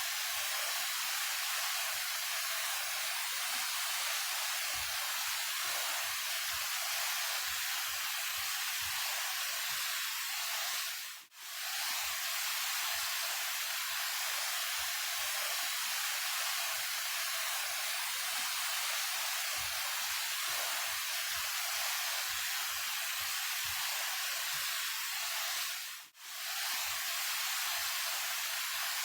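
Daehye Falls, a 28 m waterfall, rushing steadily as an even hiss of falling water. The sound dips out briefly twice, about 11 and 26 seconds in, where the looped recording is joined.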